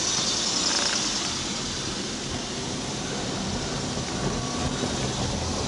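Steady car noise heard from inside the cabin: the engine running under an even hiss of road and wind noise.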